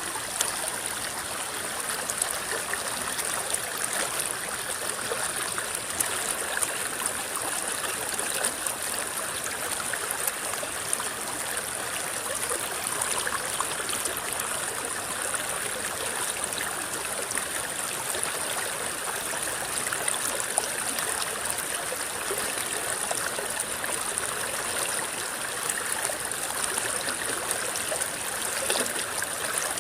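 A shallow river rippling and gurgling over stones, a steady rush of flowing water with small splashes throughout.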